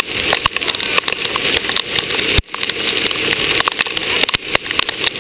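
Hail pelting down: a dense, irregular patter of sharp ticks and knocks over a steady rush of falling rain and hail.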